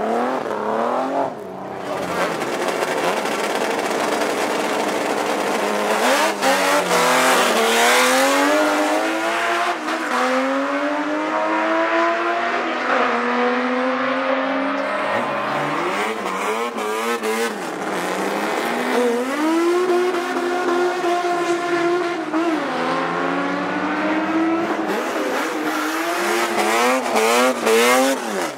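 Drag cars' big six- and eight-cylinder engines at full throttle. Their pitch climbs and drops sharply at each gear change, repeated over several runs.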